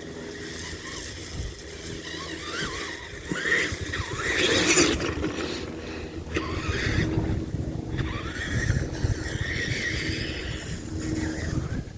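Tamiya TXT-2 RC monster truck's electric motor whining, rising and falling in pitch as it drives. A loud rough crashing burst comes about four to five seconds in as it plows through brush and sticks.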